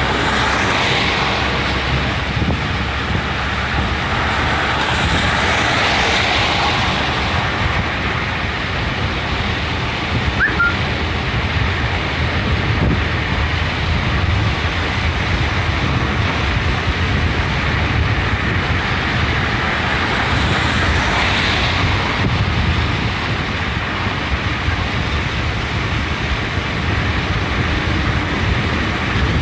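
Steady road and wind noise from a car driving at speed: a low rumble with a hiss that swells and fades a few times.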